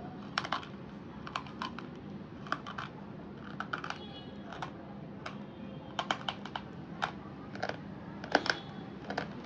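Hard, brittle slate pencil being crunched: a run of sharp cracks and snaps that come irregularly, singly and in quick clusters of two or three.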